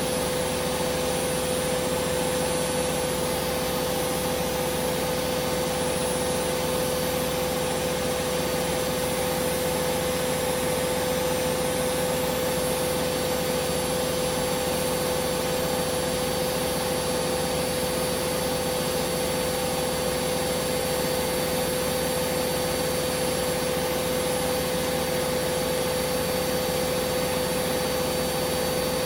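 Hoover Vision Dynamic washing machine on a high-speed spin, its drum and motor giving a steady, even whine.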